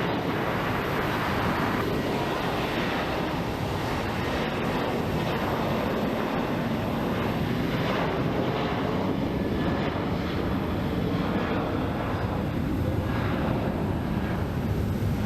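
Jet airliner engines at takeoff power, a steady rushing noise that neither builds nor fades.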